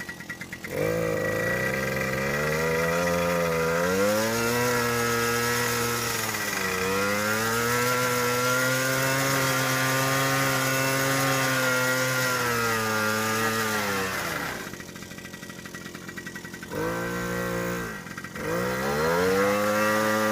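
Pit bike engine revved up and held at high revs for a burnout, with small dips, for about fourteen seconds; it then drops to idle and is revved up twice more near the end.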